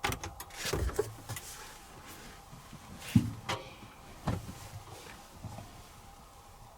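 Knocks, clicks and clunks of handling at a front-loading washing machine as laundry is loaded, with the door and drum being handled. The sounds are scattered and irregular, with the sharpest knocks about three seconds in.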